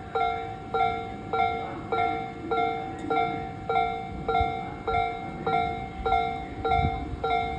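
Japanese railway level-crossing warning bell ringing at an even rate of about 1.7 strikes a second, each strike a ringing chime that fades before the next. A low rumble of the approaching train rises near the end.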